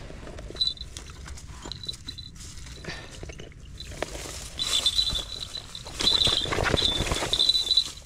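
A bird's repeated high, thin calls, coming more often and louder in the second half, over the rustle of dry rice straw being pushed about.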